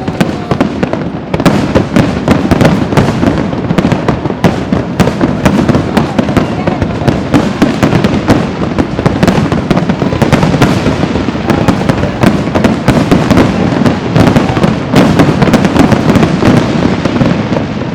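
Fireworks display at its peak: a dense, rapid barrage of cracks and bangs over continuous rumbling booms, easing off near the end.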